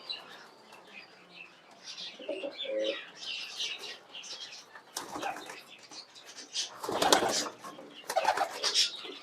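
Fancy pigeons in a loft cooing, with wings flapping in two loud bursts about five and seven seconds in. Busy high chirping from birds in the cages runs underneath.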